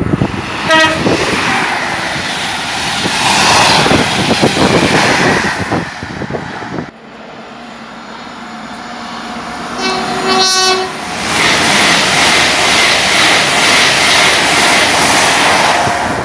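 Two trains passing through a station at speed, each sounding its horn. A short horn toot comes about a second in, as the first train rushes past. Around ten seconds in, a Great Western Railway Intercity Express Train blows a longer horn and then passes close by with a loud rush of wind and wheel noise.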